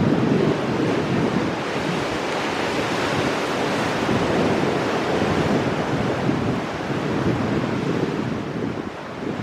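Ocean surf breaking on rocks, a continuous churning wash of waves, with wind buffeting the microphone.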